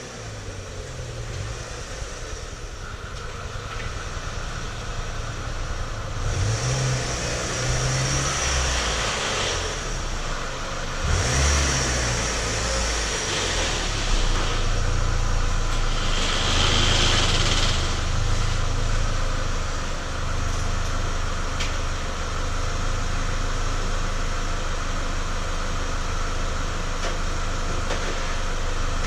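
Renault F4R petrol four-cylinder engine running from cold with a clatter that makes it sound like a diesel. This is the classic sign of a worn dephaser (variable valve timing) pulley.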